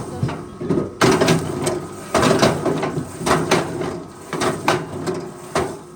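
A forestry machine's engine running steadily under irregular clattering and knocking, several hits a second.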